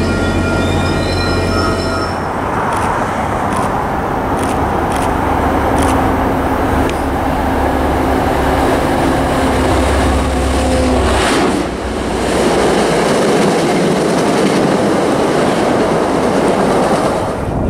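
MBTA commuter train approaching and passing close beneath, a steady low rumble with a few clicks as it nears, turning about eleven seconds in to a louder rushing noise of the cars going by. A steady pitched tone opens the sound and stops about two seconds in.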